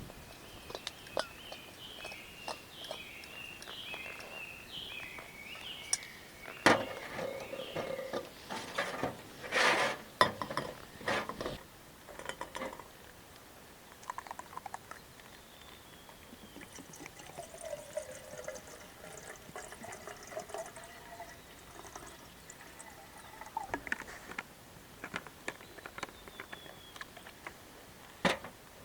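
Camp cookware being handled: scattered clinks and knocks of pots and utensils, with liquid being poured. The knocks are thickest and loudest a few seconds in.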